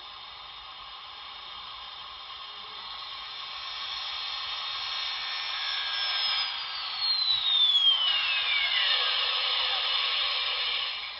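Steam locomotive shutdown sound from an HO-scale Paragon4 sound decoder, played through the model's small speaker: a steady hiss of venting steam that grows louder, with a whine that falls steadily in pitch over about three seconds in the second half.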